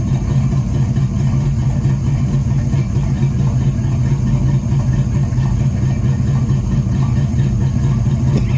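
Box Chevy car engine running steadily just after starting up. It is burning oil, with white smoke from one exhaust pipe and an oily spark plug, which the mechanic takes to mean that the motor needs a real bad oil change or that something is wrong on the side of the heads.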